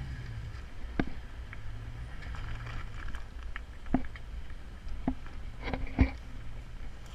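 LS V8 engine of a Jeep TJ running low and steady while rock crawling, with sharp knocks and clunks about a second in and again around four, five and six seconds in, the last the loudest.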